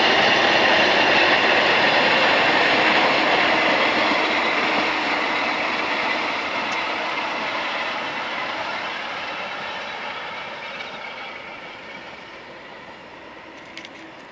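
Taisho-era Kotoden retro electric train running along the track: a steady rumble of wheels on rail with a faint ringing note. The sound is loud at first and fades away steadily as the train recedes.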